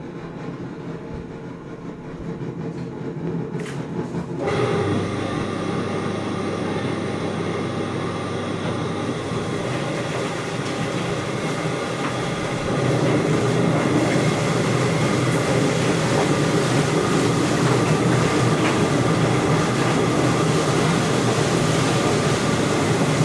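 Chicken feather-plucking machine running: a steady motor hum at first, then about four seconds in a much louder, dense rattling noise starts as the birds are tumbled and plucked, stepping up again about halfway through.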